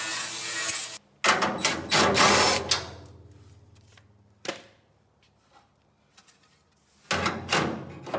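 A power tool running steadily cuts off about a second in. A burst of fast metallic clatter and rattling follows and fades out, a single knock comes in the middle, and loud rapid clatter starts again near the end.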